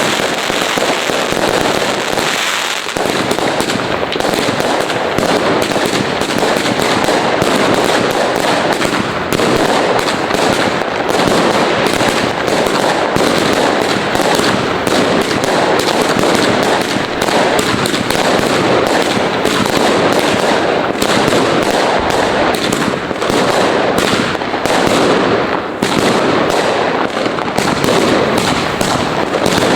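New Year's Eve fireworks and firecrackers going off in a dense, continuous barrage of bangs and crackles, many at once with no break.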